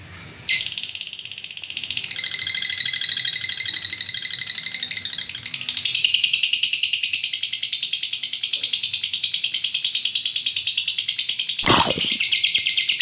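Lovebird giving its long 'ngekek' chatter: a continuous, rapid, high-pitched rattling trill that starts about half a second in and grows louder and denser partway through. A brief downward-sweeping sound cuts across it near the end.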